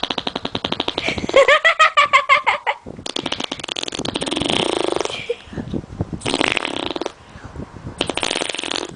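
Raspberries blown with the mouth against the bare skin of a leg, making fart-like flapping noises in a series of separate blows, the longest lasting about two seconds. One blow early on comes out pitched and wavering.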